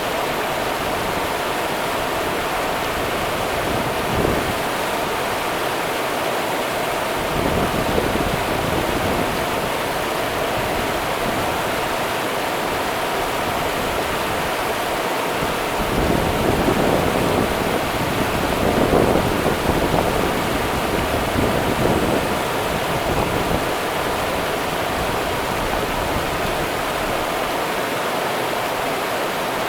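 Rio Grande river water running, a steady rushing wash that swells a little now and then.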